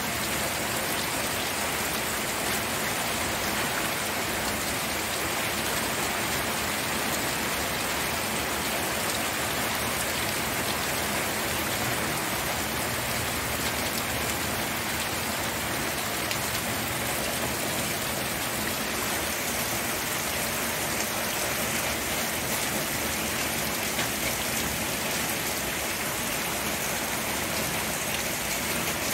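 Steady rain falling, with dense fine pattering of drops on a surface.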